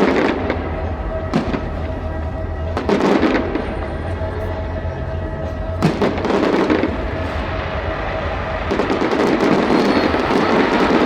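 Fireworks bursting: a few sharp booms a few seconds apart, then, from about three-quarters of the way in, a dense continuous crackle of many shells going off at once.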